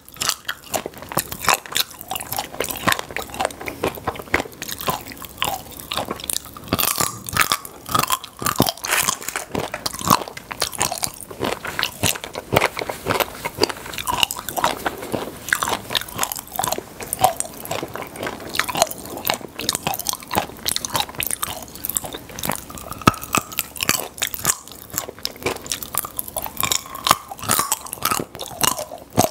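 Close-miked chewing and crunching of popping-candy chocolate, with dense, rapid crackling and clicking throughout.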